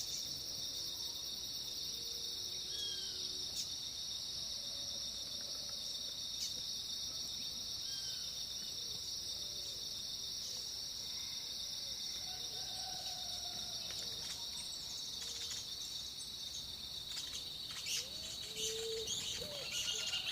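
Steady high-pitched insect chorus with scattered short bird calls and chirps over it, the bird calls coming thicker near the end.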